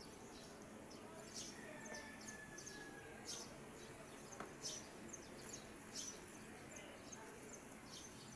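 Small birds chirping faintly: short, high, down-slurred chirps repeating every half second to a second over a quiet steady background.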